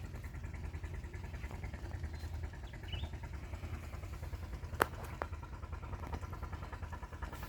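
An engine running steadily at an even speed, with a sharp click about five seconds in and a fainter one just after. A brief bird chirp comes about three seconds in.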